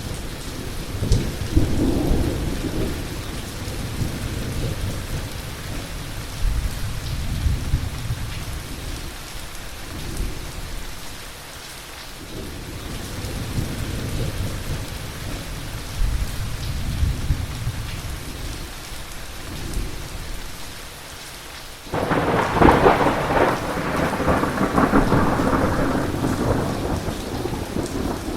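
Heavy rain with thunder rumbling low, swelling and fading. About three-quarters of the way through, a sudden loud thunderclap breaks in and rolls on as loud rumbling.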